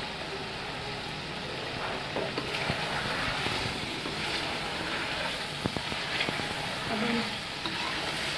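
Chicken and potato curry sizzling in a metal pot while a metal ladle stirs it, with a few sharp clinks and knocks of the ladle against the pot.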